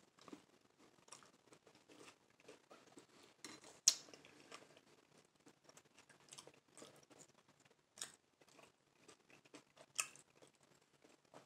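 Close-up chewing and mouth sounds of someone eating a taco in a soft flour tortilla with chicken and bacon: soft wet smacks and small crunches, with a few sharper clicks, the loudest about four seconds in.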